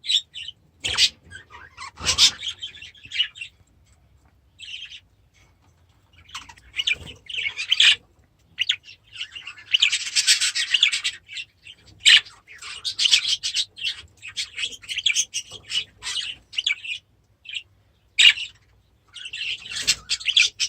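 Small aviary birds chirping and chattering in short, irregular bursts, with a denser, harsher stretch of calling about ten seconds in.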